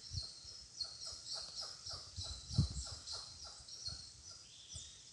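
A troop of monkeys calling: a rapid series of short calls, each falling in pitch, about two or three a second, growing fainter toward the end.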